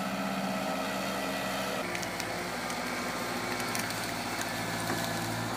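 Kubota tractor engine running steadily. Its note changes about two seconds in, and light clicks and rattles follow.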